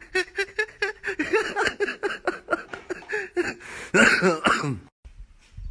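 A voice making a rapid run of short, pitched vocal sounds, several a second, breaking off abruptly about five seconds in.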